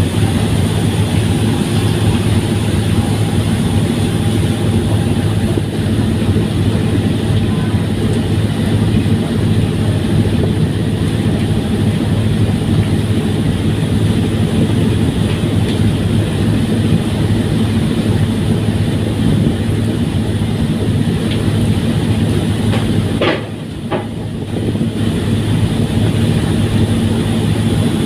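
Steady, loud drone of a fast passenger ferry's engines under way, with a deep even hum. About five seconds before the end the sound briefly drops, and there are a couple of sharp clicks.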